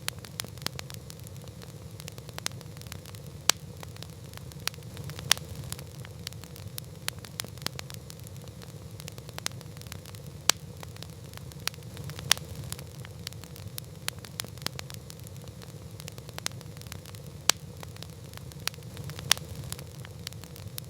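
Campfire burning: a steady low roar with irregular sharp crackles and pops of burning wood, a few of them loud.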